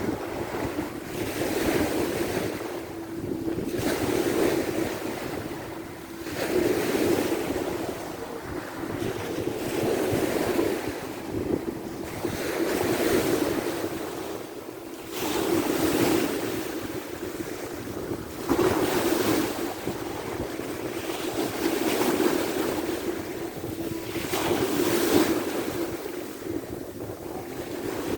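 Sea waves washing onto the shore one after another, swelling and fading about every two to three seconds, with wind buffeting the microphone.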